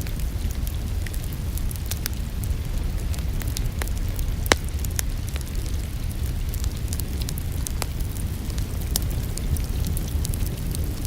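Wood fire in a fireplace crackling, with scattered pops and one sharper pop about four and a half seconds in, over a steady low rumble mixed with rain.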